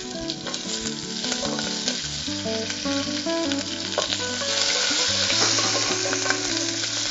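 Green chillies and whole shallots sizzling in hot oil in an aluminium pressure cooker, stirred now and then with a wooden spatula. The sizzle grows louder in the second half.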